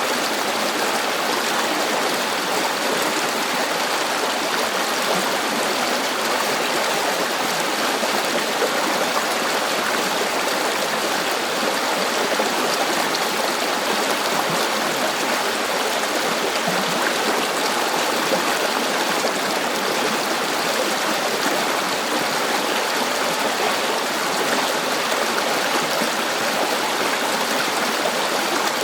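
River water flowing steadily, an even rushing sound with a light gurgle.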